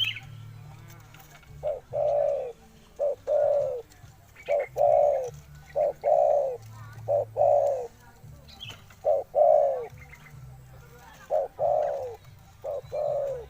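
A dove cooing: about eight two-part calls, each a short note followed by a longer falling coo, repeated every second and a half or so over a low hum.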